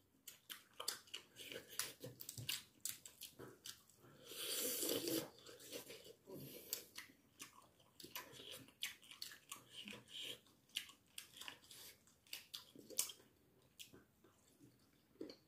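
Close-up eating sounds of people chewing and biting braised chicken off the bone: many short mouth clicks and smacks, with a louder noise lasting about a second some four seconds in.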